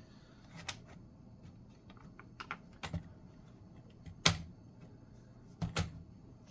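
About eight sharp plastic clicks and taps, scattered and uneven, the loudest a little past the middle: a laptop's plastic case being worked and pried apart at its clips.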